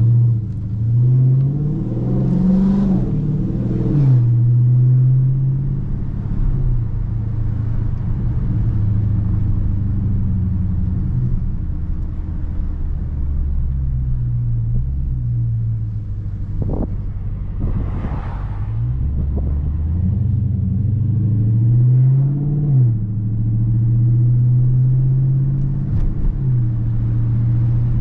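2019 Dodge Charger Scat Pack's 6.4-litre HEMI V8 running loud while driving: the engine note climbs under acceleration at the start and drops at an upshift, holds steady while cruising, then climbs and drops again at another shift a little past two-thirds through. A few short sharp noises come through in the second half.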